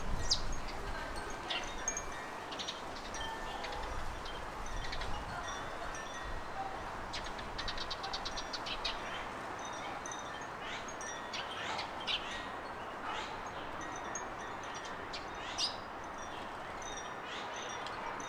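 Small songbirds chirping and calling in scattered short notes, with a quick trill of repeated notes about seven seconds in, over a steady hiss of wind and leaves.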